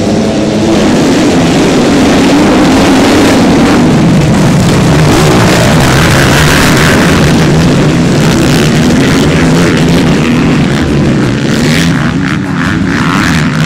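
Motocross bike engines running loudly and revving, their pitch rising and falling throughout.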